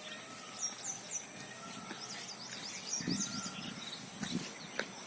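Outdoor birdsong: a small bird sings short runs of quick, high, up-and-down notes, over a steady high-pitched insect drone. A few soft low thuds come in about three seconds in.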